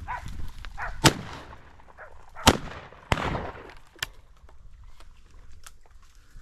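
Shotgun shots fired at a flushed covey of bobwhite quail: four sharp reports over about three seconds, the loudest about two and a half seconds in.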